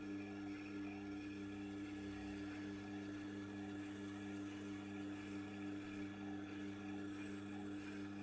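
Tormek T8 sharpener's motor running steadily with a low, even hum while a knife edge is honed on its leather honing wheel.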